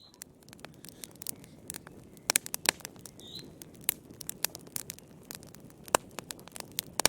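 Wood fire crackling: irregular sharp snaps and pops, several a second, over a low steady hiss of burning logs.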